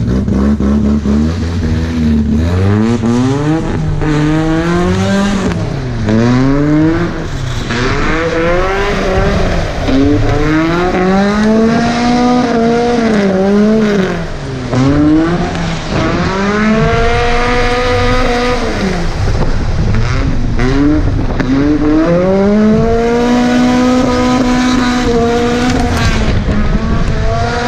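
Volvo 740 drift car's red-block four-cylinder engine revving hard while drifting on dirt, its pitch climbing and dropping over and over as the throttle is worked on and off.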